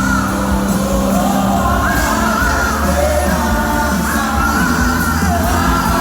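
Live worship band playing with a sung melody over it, echoing in a large hall.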